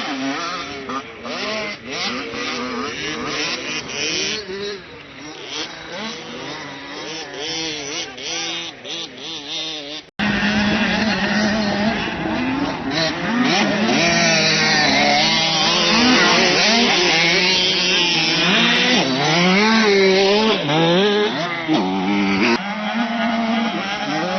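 Motocross bike engines revving up and down over and over as they ride the track. About ten seconds in there is an abrupt cut to louder, closer engine sound: one bike running steadily while others rev and drop back.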